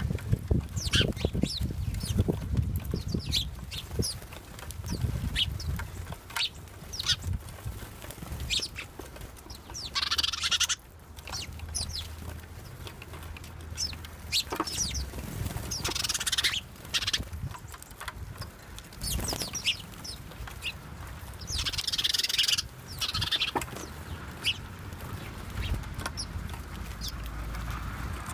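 Backyard birds chirping: a steady scatter of short, high chirps, with three louder, harsher bursts of sound about ten, sixteen and twenty-two seconds in. A low rumble sits underneath, strongest in the first few seconds.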